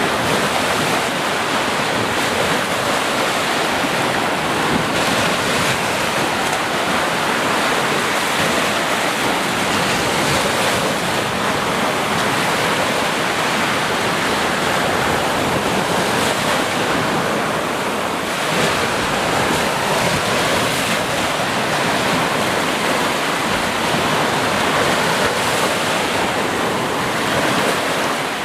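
Sea surf: waves breaking and washing in a continuous, steady rush with slow swells in level.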